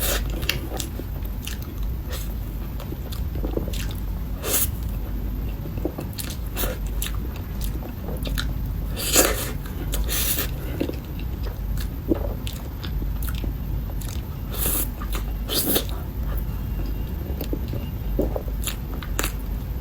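Close-miked eating sounds: biting into and chewing soft matcha mille crepe cake, with many short, irregular wet mouth clicks over a steady low hum.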